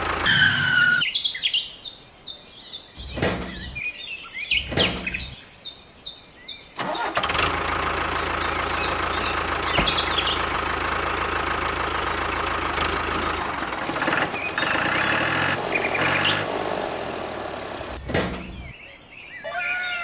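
Small engine of a miniature water pump running, cutting in and out several times during the first seven seconds and then running steadily for several seconds. Birds chirp over it.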